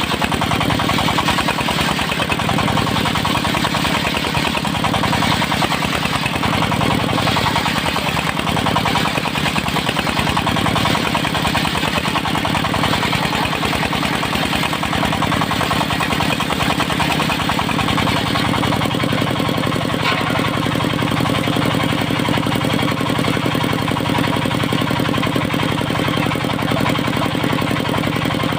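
Engine of a portable circular sawmill running steadily, its tone shifting slightly about two-thirds of the way through.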